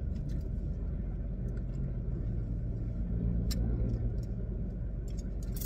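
Car engine idling, a steady low hum heard inside the cabin, with a few light clicks.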